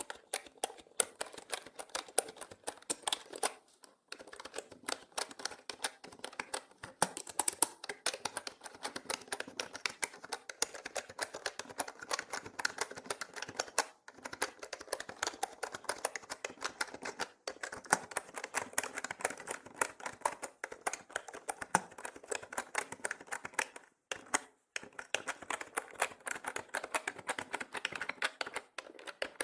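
Fast, continuous typing on a mechanical keyboard: dense key clicks with a few brief pauses, mixed as 8D audio that pans around the listener.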